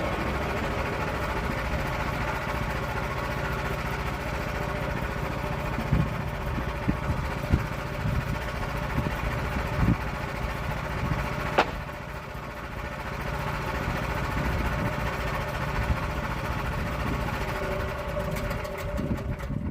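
Portable sawmill's engine running steadily, with a few sharp knocks in the middle; the engine cuts off at the very end.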